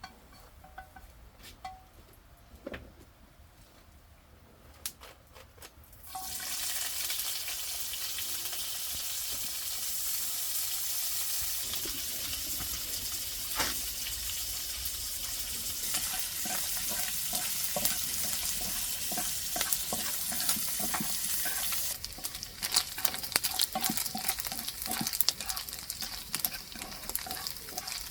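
Food sizzling in a hot pan, starting suddenly about six seconds in after a few light knocks. Near the end the sizzle turns crackly, with a run of light clatter as of stirring.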